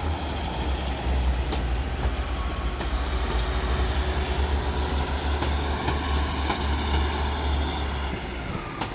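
Northern Class 156 and Class 150 diesel multiple units departing, their diesel engines running as the train pulls out, a steady rumble that eases slightly near the end.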